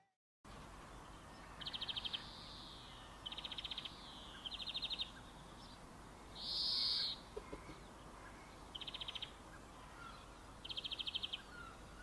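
Small birds calling over a quiet outdoor background: five short, rapid trills of about half a second each, and one louder, smoother call a little past halfway.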